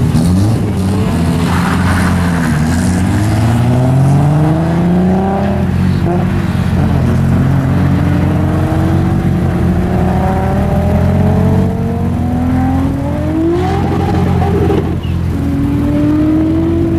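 Two cars, the nearer a Toyota Supra, launching from a standing start and accelerating hard away, the engine note climbing through each gear and dropping at several upshifts.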